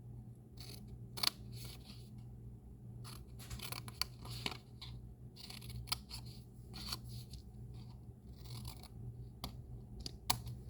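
Scissors snipping scored cardstock, a string of short irregular cuts as the corner tabs of a treat box are cut up to the score line.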